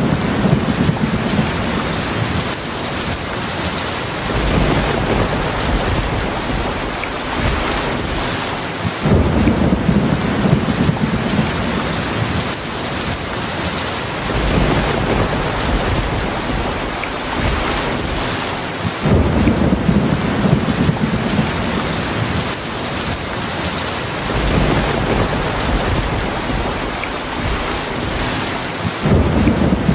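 Heavy rain falling steadily, with low rolls of thunder swelling up about every ten seconds, four times in all.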